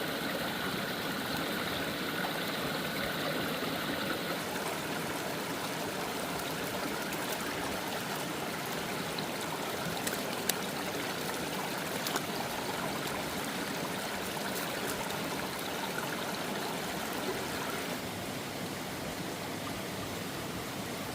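A stream flowing steadily over rocks. Two brief sharp clicks sound about halfway through.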